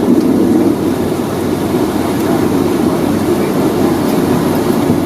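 Steady low rumble inside the cabin of a Boeing 757-200 on the ground before takeoff, with its Rolls-Royce RB211 engines running.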